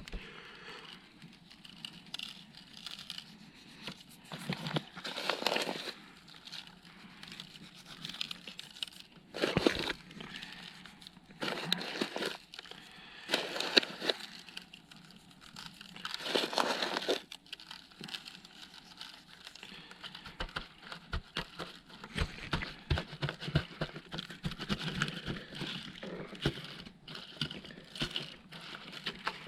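Rustling and crinkling from hands seasoning whole partridges, in several separate spells, then a run of small crackles and clicks over the last third.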